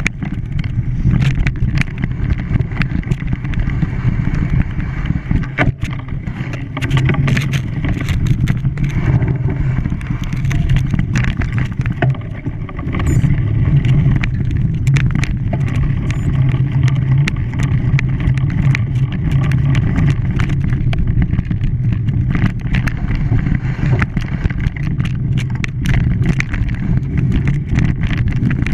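A vehicle engine running steadily, its low hum overlaid with frequent rattles and knocks.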